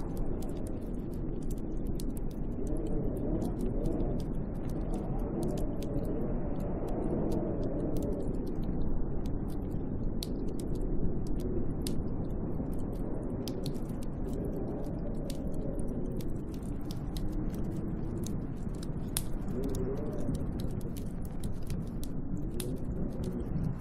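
Snowstorm wind gusting around a hut: a steady rush with a low moaning tone that rises and falls, over scattered light ticks.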